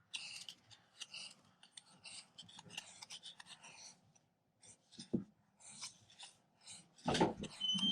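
Light scratching and rustling of hands handling baker's twine wound on a cardboard strip, in many short strokes. A louder bump comes about seven seconds in, and a brief high tone sounds near the end.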